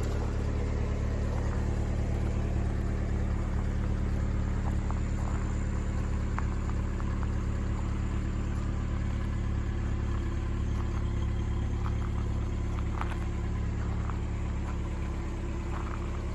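Engine idling steadily after a cold start, with a few faint clicks over the drone.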